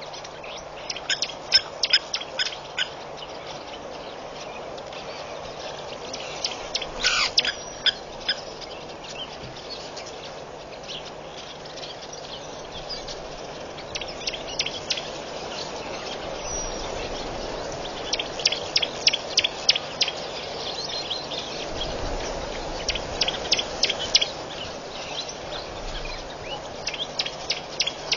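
Birds calling in repeated bursts of short, sharp, high clicking notes, several clusters a few seconds apart. Under them is a steady hiss with a faint low hum.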